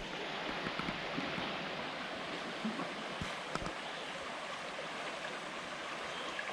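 Steady rush of running water, with a couple of faint ticks about halfway through.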